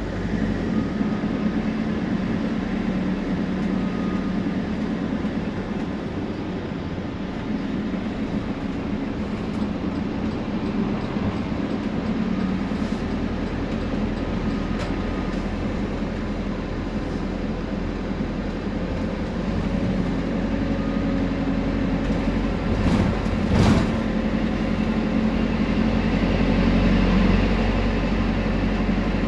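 Temsa Prestij SX bus driving along, its engine and drivetrain giving a steady low hum. About 23 seconds in, a brief thump.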